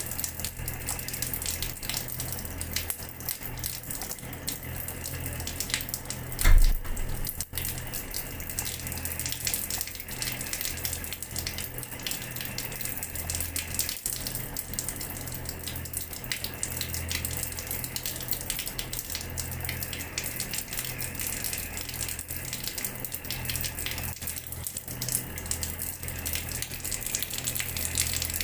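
Water running from a tap and splashing steadily onto a hard floor, with many small splatters and a low hum underneath. A short, loud low thump about six and a half seconds in.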